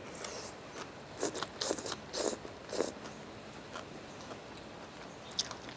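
Close-up eating sounds of a mouthful of Thai papaya salad with rice noodles being chewed: a cluster of loud wet chewing noises between about one and three seconds in, then one sharp mouth click near the end.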